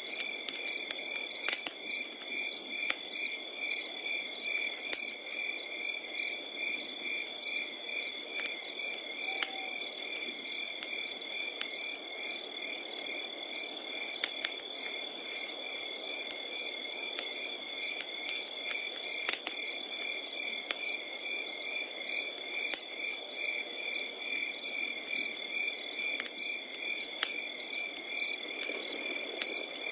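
Crickets chirping at night: a steady high trill with a pulsed chirp repeating about twice a second. Under them, a wood campfire crackles, with a low hiss and scattered sharp pops at irregular moments.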